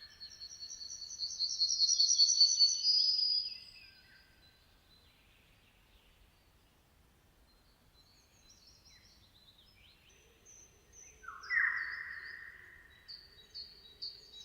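Songbirds singing. A fast trill of high notes swells and stops after about three and a half seconds. After a lull, scattered short high notes follow, with a louder, lower phrase about eleven seconds in.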